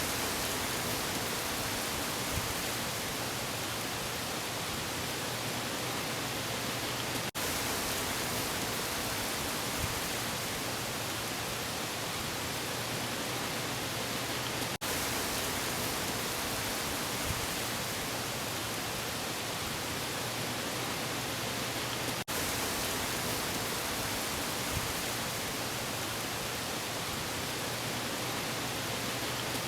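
Steady rushing noise of wind and surf, even and unbroken, with a brief dropout about every seven and a half seconds.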